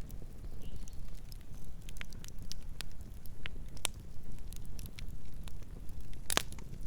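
Campfire burning, with a steady low rumble and scattered sharp crackles and pops from the wood, the loudest pop about six and a half seconds in.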